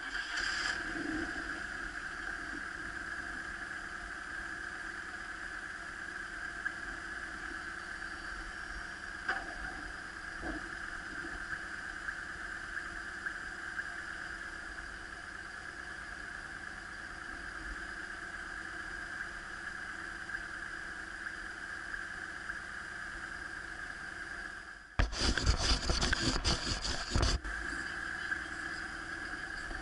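BMW R1150RT's boxer-twin engine running steadily, heard through a camera mounted on the bike. A little before the end, a loud rough burst of noise swamps it for about two seconds.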